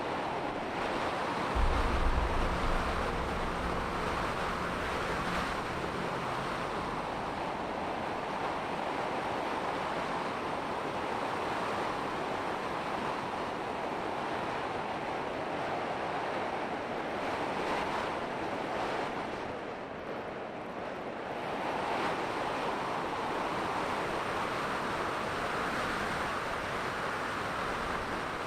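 Strong wind rushing over the microphone: a steady hiss that swells and eases, with a heavier low buffeting about two seconds in.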